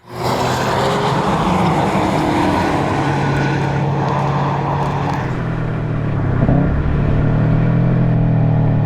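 Subaru WRX STI's turbocharged flat-four engine through an Invidia Q300 exhaust, driven hard on a race track. The note drops about five seconds in, then holds steady at a lower pitch, with a brief rise and fall shortly after.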